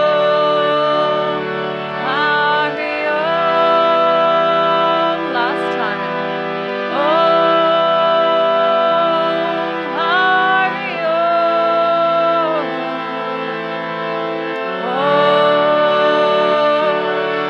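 Mantra chanting with a harmonium: a voice sings long held notes that slide from one pitch to the next, over a steady harmonium drone.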